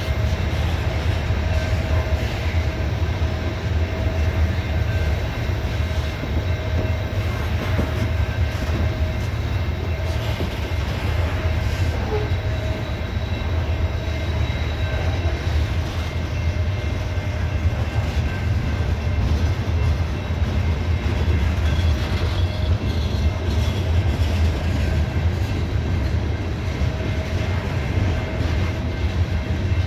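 CSX coal train's open-top hopper cars rolling past at speed: a steady low rumble of steel wheels on the rails, with a thin steady ringing tone above it.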